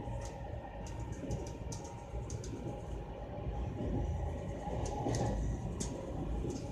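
Moving train heard from inside a carriage: a steady low running rumble with sharp clicks and rattles scattered through it.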